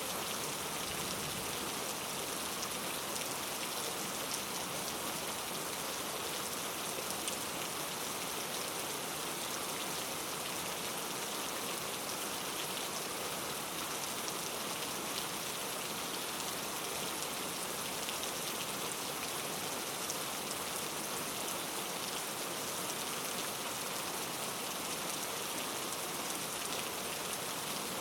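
Steady rain falling, an even hiss with fine scattered drop ticks and no breaks.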